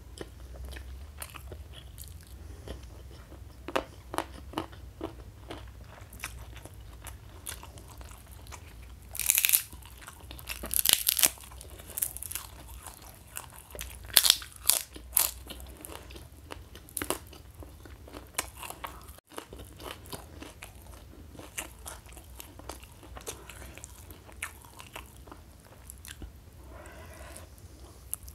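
Close-miked sounds of a person eating: chewing with many short crunchy bites, loudest in two clusters about ten and fifteen seconds in.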